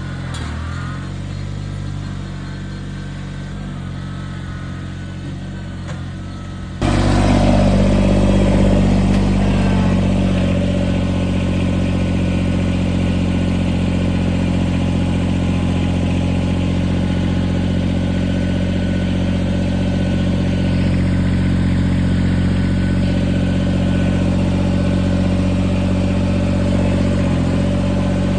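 Tractor engine running steadily. About seven seconds in it suddenly gets louder, its pitch sags briefly, then it holds steady again.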